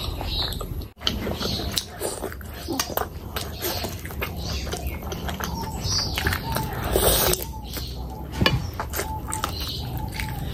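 Close-miked eating sounds of a person chewing oily, curry-soaked meat by hand: wet chewing, lip-smacking and sucking with many small clicks, and a big mouthful going in near the end.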